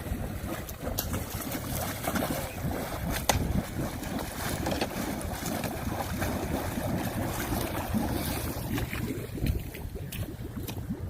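Floodwater rushing and churning as it drains into a cleared street storm drain, with wind buffeting the microphone. Scattered splashes and knocks come through the steady rush.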